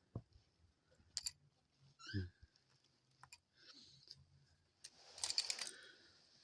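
Light clicks and taps of a dove picking up and knocking small sticks about in its cage, with a brief cluster of rattling clicks about five seconds in.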